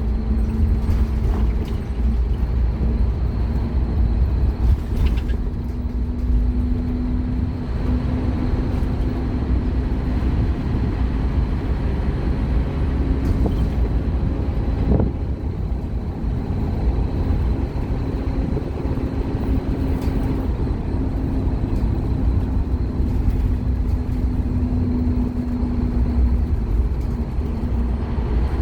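Scania K230UB Omnilink single-deck bus's diesel engine running steadily while the bus is under way: a deep rumble with a steady drone over it, and a couple of brief knocks.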